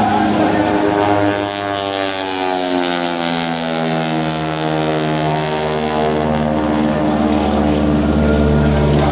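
Propeller airplane flying past, its engine-and-propeller drone dropping steadily in pitch as it goes by.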